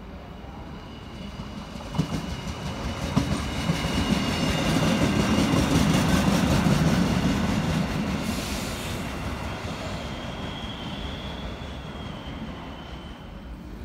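Arriva passenger train passing at close range: the wheels click over the rail joints, and a rumble builds to its loudest about six seconds in, then fades as the train moves away. A thin, high-pitched wheel squeal runs through the passing, and a brief hiss comes around eight seconds in.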